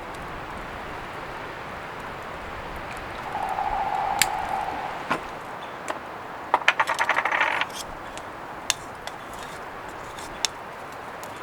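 Light metallic clinks and taps of small utensils or gear: a quick run of about ten clinks lasting about a second past the middle, and a few single clicks, over a steady background hiss.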